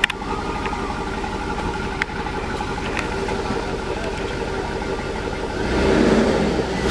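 Chevrolet Tahoe's 5.3-litre LS V8 (L59) idling steadily on its first start after months of sitting, then revved once near the end, the pitch rising.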